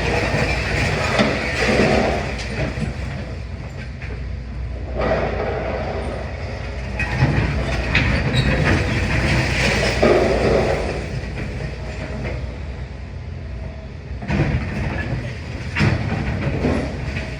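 Demolition excavator working on a building: a steady low engine rumble under irregular crunching, clattering and knocks of breaking masonry and debris every few seconds.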